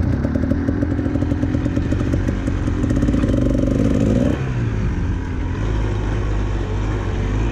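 Dirt bike engine running under throttle, its pitch climbing slightly, then the throttle is closed about four seconds in and the engine drops to a lower, steady note.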